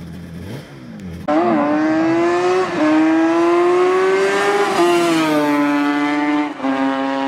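Yamaha YZR750's two-stroke parallel-four racing engine at high revs, cutting in suddenly about a second in; the pitch climbs and steps down at each upshift, three times, as the bike accelerates along the track.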